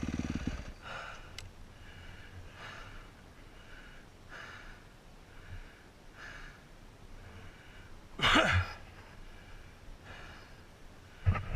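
A dirt bike's engine cuts out about half a second in, leaving the rider's heavy breathing, roughly one breath a second. About eight seconds in comes a louder breath or groan with a falling pitch, and another loud sound near the end.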